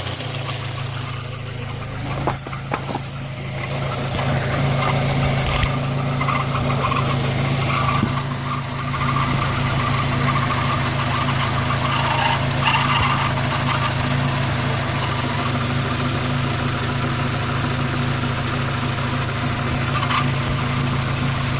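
Citroën Xantia 1.8 four-cylinder petrol engine idling steadily, with a couple of knocks about two to three seconds in. It carries a noise that the owners place in the block or suspect comes from the timing-belt tensioner pulley.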